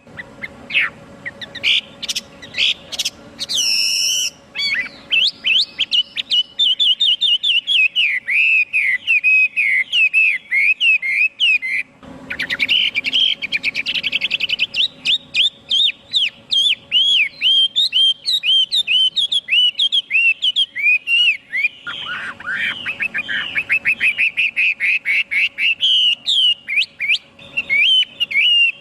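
Chinese hwamei singing a long, varied song of rapid, repeated whistled notes. The phrasing shifts abruptly twice, a little under halfway and again about three-quarters of the way through.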